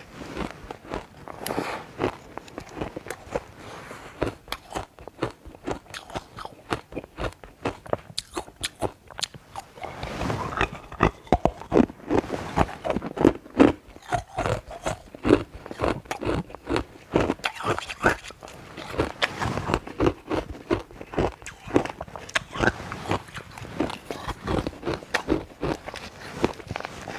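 A person biting and chewing ice close to the microphone: rapid, irregular crunches and cracks in quick succession, growing denser and heavier partway through.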